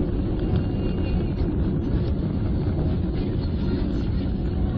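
Steady road and engine noise of a moving car heard from inside the cabin, a constant low rumble with no distinct events.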